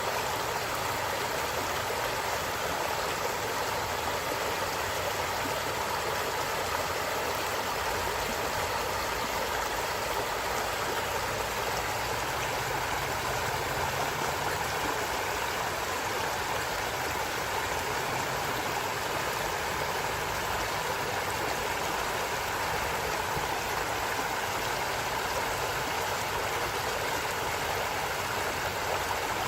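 Stream flowing steadily, an even rush of water with no breaks.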